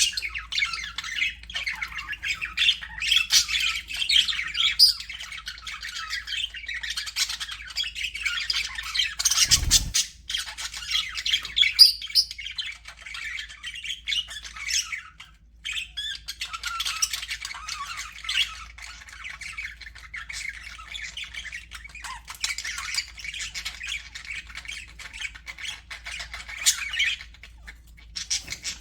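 A flock of budgerigars chattering, chirping and squawking without a break, with a short lull about fifteen seconds in. A brief low thump sounds under the chatter about ten seconds in.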